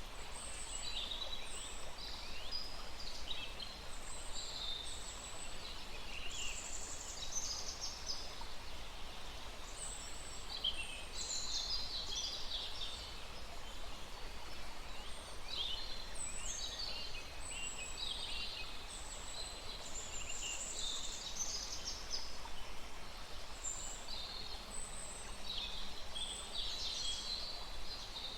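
Many small birds chirping and singing over the steady rush of a small forest stream.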